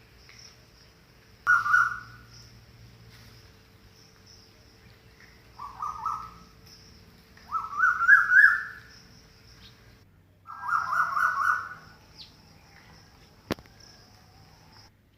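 Kittens mewing: four short, high calls, the later two longer with a wavering, stepped pitch. A single sharp click comes near the end.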